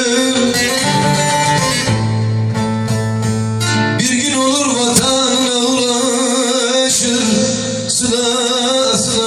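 Bağlama and guitar playing Turkish folk music, with wavering, ornamented melody lines over a guitar accompaniment; a low chord is held for about two seconds near the start.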